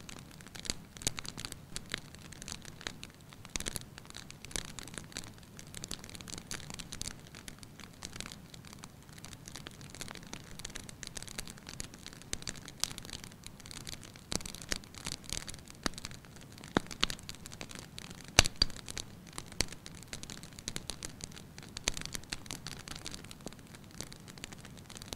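Wood fire crackling in a fireplace: irregular sharp pops and snaps over a soft hiss, with one louder pop about eighteen seconds in.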